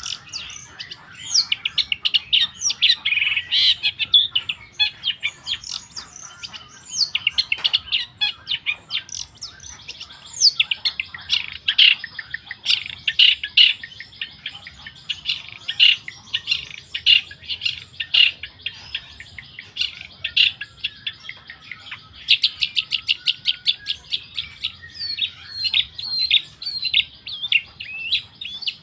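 Long-tailed shrike (cendet) singing a rapid, varied song of high chirps and trills in bouts with short gaps, including a fast, even rattle of notes about two-thirds of the way through.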